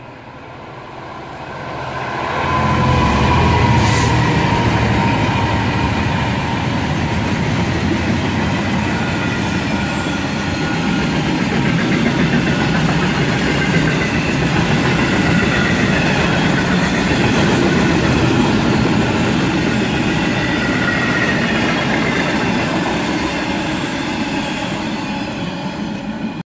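A Class 66 diesel locomotive's two-stroke V12 engine drawing near and passing at speed, loudest about three seconds in. It is followed by a long rake of open box wagons of an engineering train rolling past, with a continuous rumble of wheels on rail.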